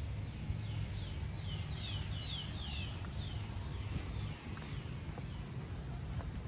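A songbird singing a run of about ten quick downward-sliding whistled notes, building up and then fading within the first three seconds, over a steady low rumble.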